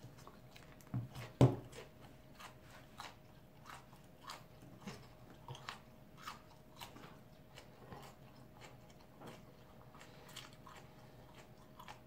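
A man chewing raw habanero peppers: irregular crunching bites and mouth clicks, one or two a second, with a louder bite about a second and a half in. A faint steady hum runs underneath.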